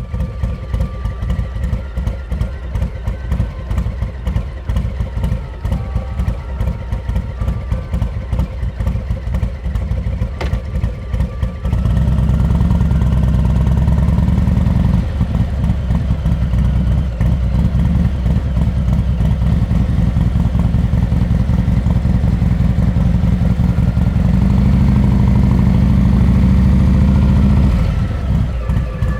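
Harley-Davidson Heritage Classic 114's Milwaukee-Eight V-twin running through a Rinehart exhaust, idling with an uneven pulsing beat for about the first twelve seconds. It then gets louder under throttle and drops back to a lower, pulsing note near the end.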